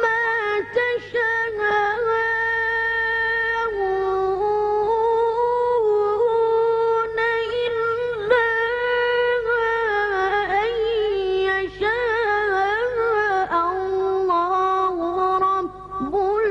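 A boy's voice chanting Quran recitation, drawing out long, ornamented melodic notes with brief breaths between phrases.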